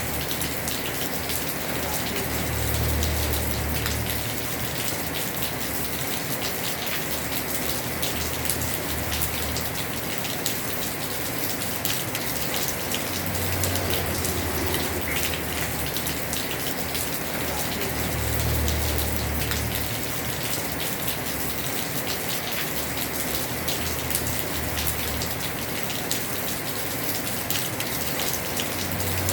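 Heavy rain falling on a house roof, a dense steady hiss of drops, with a low rumble that swells and fades every few seconds.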